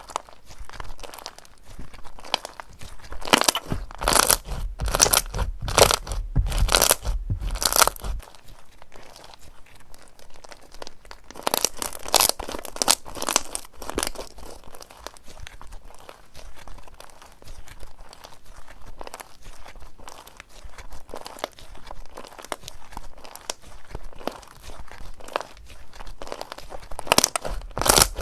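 Crunchy slime being squeezed and pressed, giving dense crackling crunches in clusters: loud bursts a few seconds in and again near the middle and the end, with softer crackle between.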